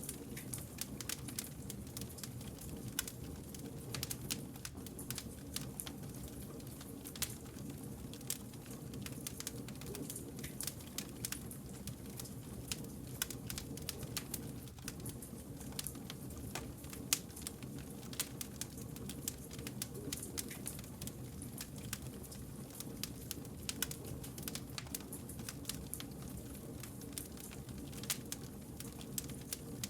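Wood fire crackling with many sharp pops and snaps over a steady low rumble of burning logs.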